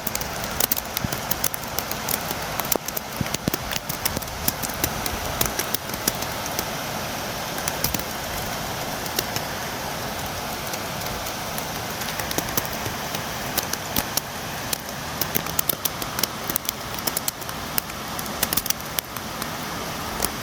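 Steady rain with a dense scatter of sharp taps from drops striking the window.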